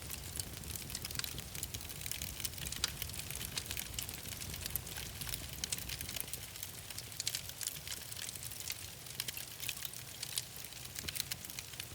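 Wood fire crackling, with many irregular small pops over a steady low rumble.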